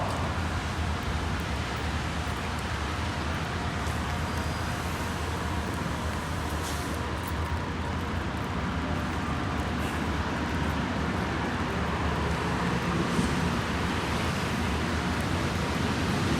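Steady rain, a continuous even hiss with a low rumble underneath.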